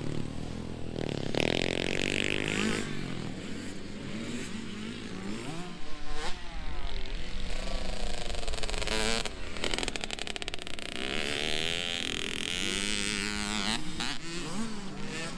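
Dirt bike engines revving up and down, several bikes overlapping.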